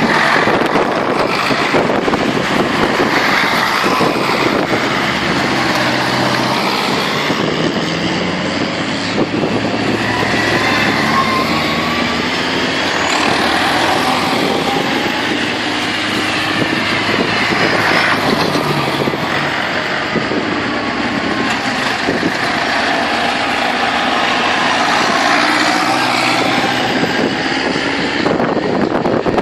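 Tractor engines running together, their pitch rising and falling as they move past.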